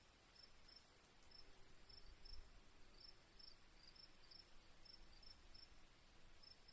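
Faint crickets: a steady high trill with short chirps repeating about three times a second.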